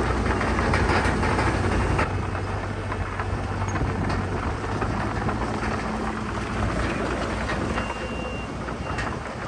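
Heavy diesel earthmoving machinery working dirt and rock: a steady low engine drone under a rough clattering haze. The level drops slightly about two seconds in, and a short high tone sounds near the end.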